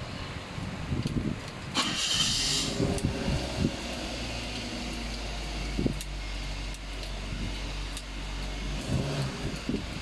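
Perodua Myvi engine cranked by its starter for under a second about two seconds in, catching and then idling steadily. A single sharp click comes a few seconds later.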